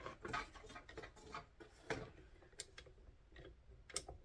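Faint, irregular clicks and scrapes of a utensil against a mixing bowl as chocolate chips are folded into stiff cookie dough.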